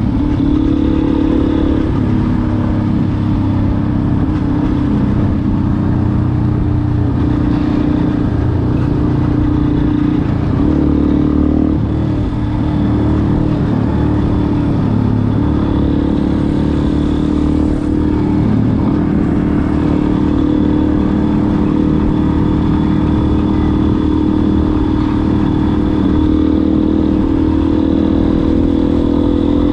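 Yamaha Ténéré 250's single-cylinder four-stroke engine running through a WACS aftermarket exhaust tip, its pitch stepping up and down every few seconds with throttle changes.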